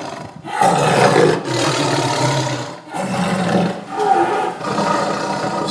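Tiger roaring, in two long bouts with a short break about three seconds in; it cuts off suddenly at the end.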